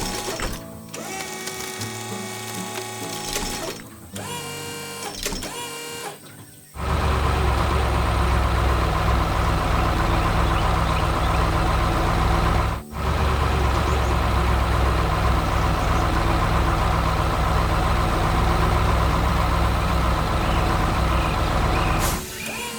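Background music for the first few seconds, then a heavy engine rumble starts and runs steadily and loudly, cutting out briefly about thirteen seconds in before resuming.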